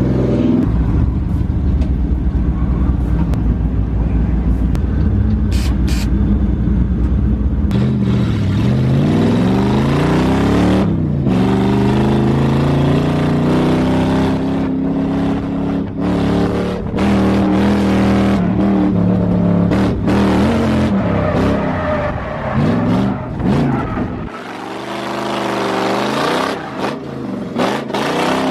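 Lexus LS400 drift car's V8 engine revving, with a steady low rumble for the first several seconds and then the pitch repeatedly rising and falling as it is driven hard. The sound breaks off abruptly a few times.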